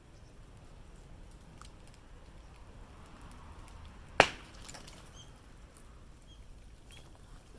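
A single sharp, loud crack of dry bamboo about four seconds in, amid faint scattered ticks and crackles.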